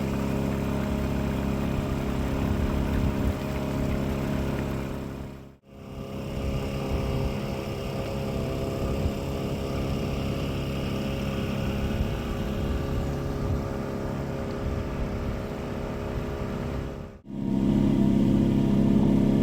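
Engine of a small canal cruiser boat running steadily under way: a constant engine hum with a steady pitch. The sound drops out sharply twice, about five and a half and seventeen seconds in.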